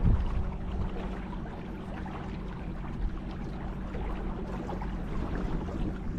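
Battery-powered kayak under way on the river: a steady low motor hum under the wash and trickle of water around the boat.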